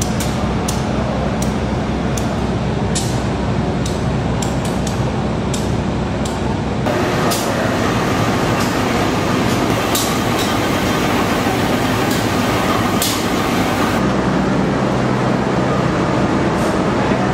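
Steady railway noise: a diesel locomotive's engine running with scattered clicks and knocks, then from about seven seconds in a louder, more even rush of train noise, with a low engine hum coming back near the end.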